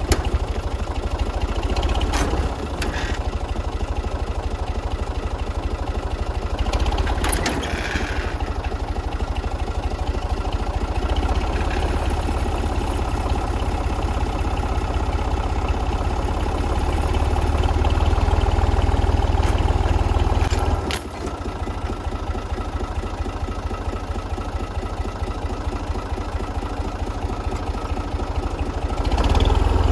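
Tractor diesel engine running steadily, with a few short knocks; a sharp bang about two-thirds of the way through, after which the engine runs a little quieter before picking up again near the end.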